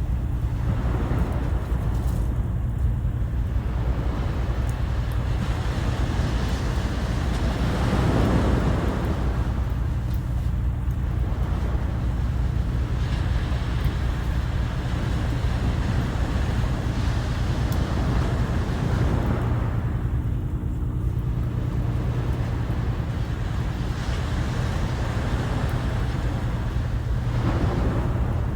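Sea waves breaking and washing ashore in slow swells that rise and fade every several seconds, over a steady low rumble.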